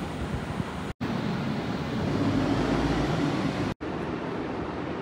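Steady outdoor traffic-like rumble and noise. It breaks off abruptly twice, about a second in and again near the end, with a slightly louder stretch between the breaks.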